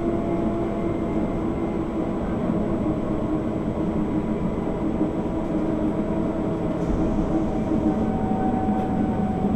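Z 6400 electric commuter train running at speed, heard from inside the carriage: a steady rolling rumble with a constant hum.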